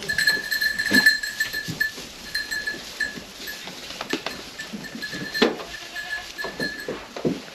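Goats bleating in short calls, mixed with knocks and a high, thin ringing tone that comes and goes.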